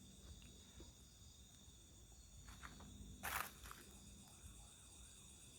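Faint night insects, crickets among them, chirring steadily in high-pitched bands. A brief rustle about three seconds in.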